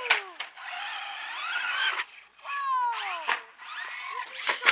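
Electric motor of a Traxxas Slash RC truck whining as it is throttled up and down, its pitch falling and rising several times, with a few sharp knocks from the truck.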